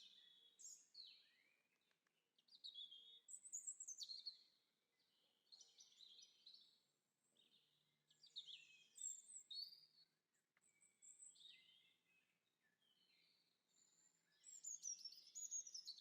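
Faint songbird song: quick chirps and trilling, warbling phrases in bursts every second or two.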